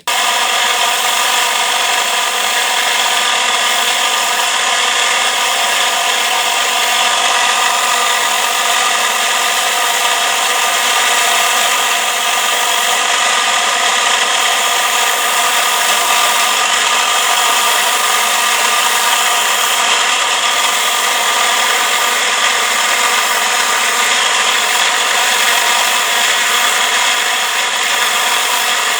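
An electric power tool starts suddenly and runs steadily throughout. Its motor gives several steady whining tones over a dense hiss.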